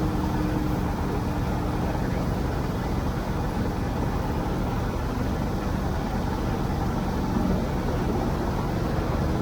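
A tractor engine running steadily under way.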